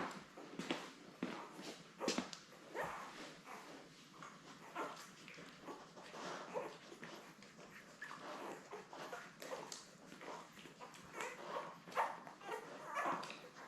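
Newborn Labrador Retriever puppies squeaking, grunting and whimpering while they nurse, in short irregular little calls.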